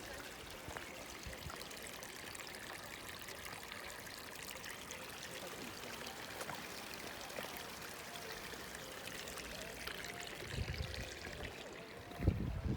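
River water pouring and rushing steadily, as at the Sablinka River's waterfall, with fine splashing throughout. Near the end come a couple of brief low rumbles.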